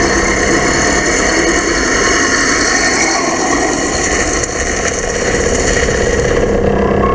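Steady traffic noise with vehicle engines running.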